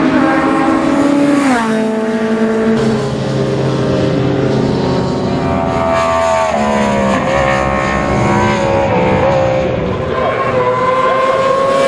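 Classic racing superbikes' engines at full race pace, more than one engine heard at once. Engine pitch drops sharply about a second and a half in, then climbs again toward the end as they rev up through the gears.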